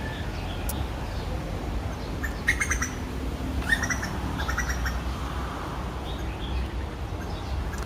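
Small birds chirping in three short, rapid bursts of notes, over a steady low hum.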